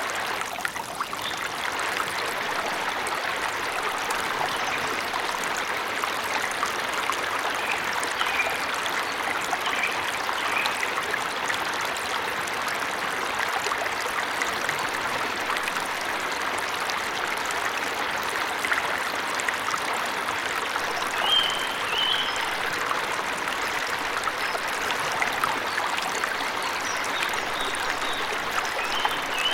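A waterfall's steady rush of falling water, with a few short bird chirps now and then, clearest about a third of the way in and near the end.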